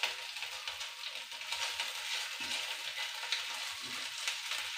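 Garlic, shallots and chilli sautéing in hot oil in a frying pan, a steady sizzle with scattered crackles, while a spatula stirs and scrapes them round the pan.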